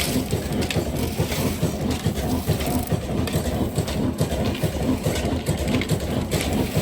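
Diesel engine running with a steady, rapid clatter.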